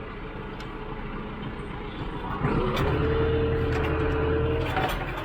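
Tractor engine running steadily, then about two and a half seconds in it takes on load with a louder steady whine, typical of the hydraulics being worked, which drops off briefly near the end. A few sharp knocks sound over it.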